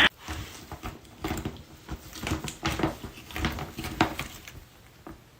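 A series of irregular light taps and clicks, like small objects or paws knocking on a hard surface.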